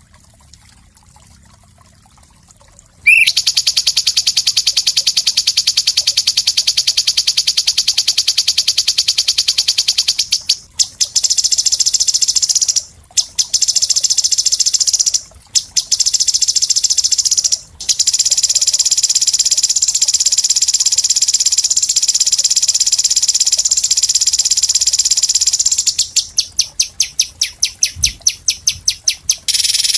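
Songbird trilling in a masteran bird-song recording. After about three seconds of near-quiet, a loud, very fast, high-pitched trill starts and runs almost without a break, stopping briefly a few times. Near the end it breaks into a quick series of separate pulses.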